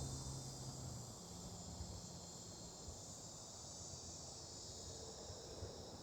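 Steady high-pitched chorus of insects, crickets by the sound of it. A low hum fades out about a second in.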